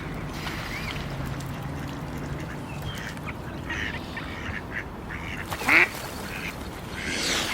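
Swan cygnets peeping repeatedly in short, high calls, with one louder call rising sharply in pitch about six seconds in.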